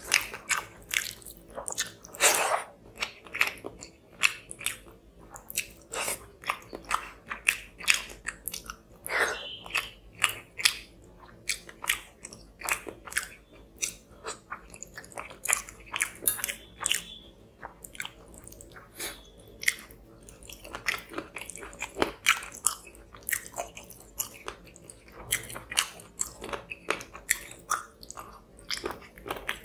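Close-miked chewing of rice and tilapia fish curry eaten by hand: wet smacking and clicking mouth sounds, a few a second, without a break.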